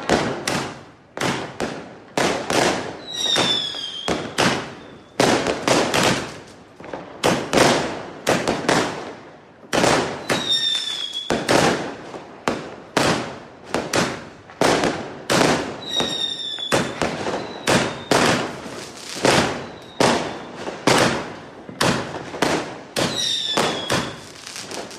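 Fireworks going off in quick succession: a steady run of sharp bangs, one or two a second, each with an echoing tail. A short high whistle falling slightly in pitch cuts in about four times.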